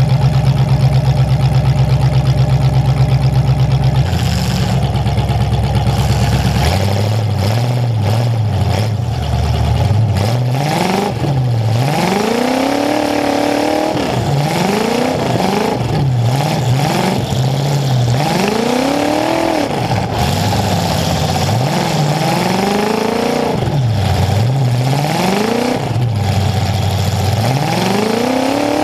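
Demolition derby car's engine running loud and close, idling steadily at first, then revved up and back down over and over, about every two seconds, from about a third of the way in.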